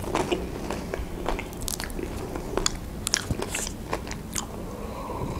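A person biting and chewing crispy fried food close to the microphone, with irregular crisp crunches throughout.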